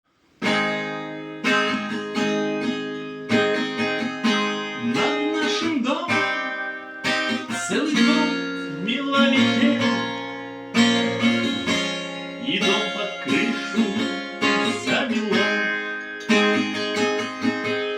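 Music: an acoustic guitar strumming chords, with a wavering melody line over it.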